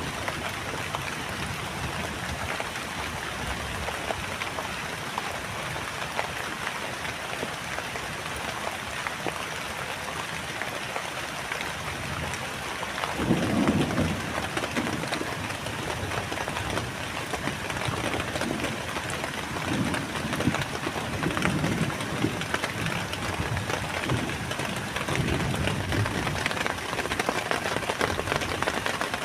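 Heavy rain falling steadily. From about halfway through, low rumbles of thunder come and go.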